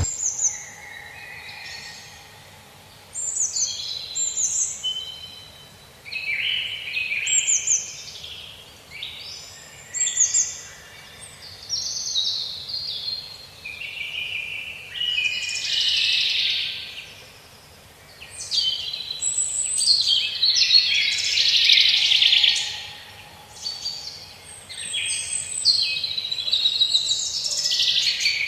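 Several songbirds singing at once: overlapping phrases of high chirps and quick downward-sliding whistled notes, coming every couple of seconds with short lulls between.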